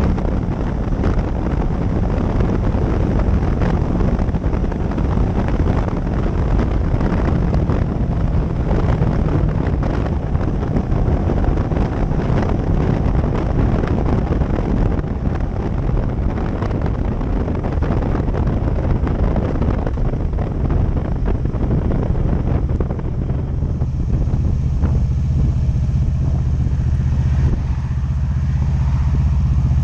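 Motorcycle riding, with wind rushing over the microphone and road noise over the engine. In the last several seconds the wind noise falls away and a steady low engine note is left, as the bike slows toward idle.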